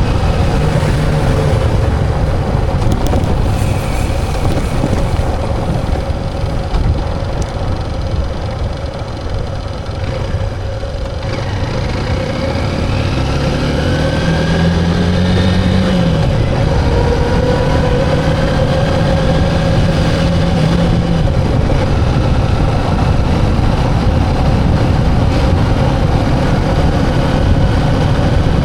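Motorcycle engine running on the road, easing off about a third of the way in, then picking up again with a rising pitch before settling into a steady run.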